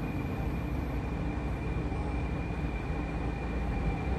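Heavy diesel truck engine running steadily, a low rumble with a thin steady high tone above it.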